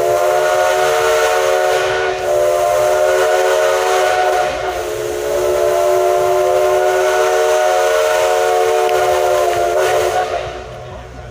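Steam locomotive's chime whistle sounding one long blast of about ten seconds, several notes together over a hiss of steam, before fading out near the end.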